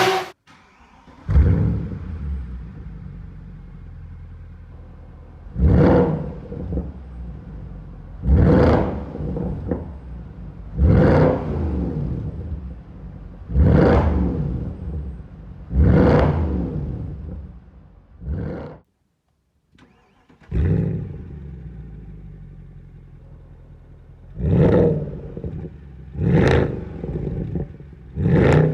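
Mercedes-Benz C63 AMG W204's 6.2-litre V8, with an aftermarket sport exhaust, starting up with a flare and settling to idle, then blipped five times in short revs about every two and a half seconds. About two thirds of the way through it shuts off, restarts with another flare, and is blipped three more times.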